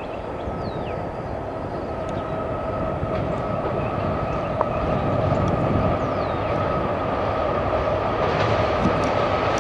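CSX loaded ballast train approaching, its locomotives and rolling cars growing slowly louder, with a steady high whine held throughout.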